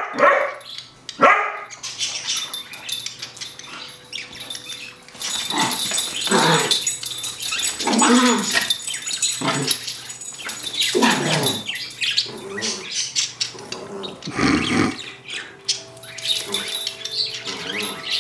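Poodles barking in play: a string of short, pitched barks and yaps a second or two apart.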